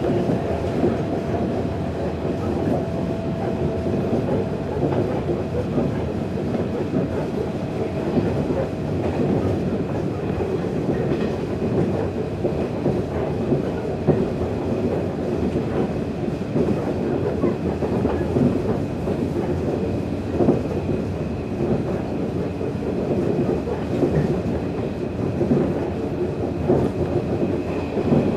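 JR 115-series electric train running at speed, heard from inside the carriage: a steady rumble of wheels on rail with irregular clacks over rail joints and a faint steady whine.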